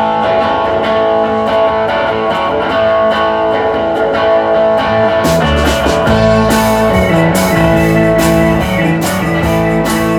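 Live band playing the instrumental intro of a rock-blues song: guitar picking alone at first, then a bass and drums with cymbals come in about halfway through.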